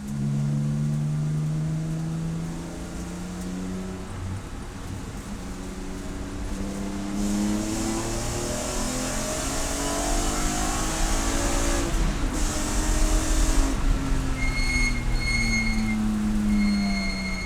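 Race car engine running hard on track, its pitch climbing and dropping again and again through gear changes. A hiss swells in the middle, and near the end a high steady tone sounds three times.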